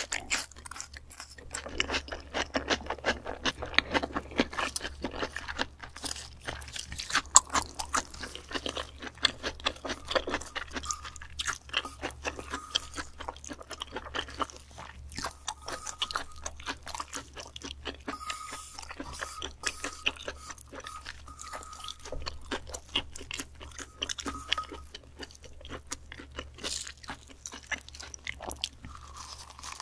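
Close-up chewing of crisp raw food: a dense run of wet, crunchy bites and chews throughout.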